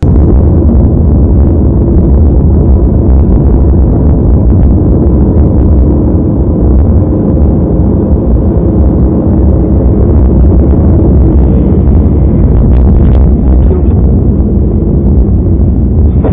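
Loud, steady, muffled rumble of a moving vehicle's engine and road noise as picked up by a dashcam's microphone, heavy in the low end and heard through narrow-band, overdriven audio.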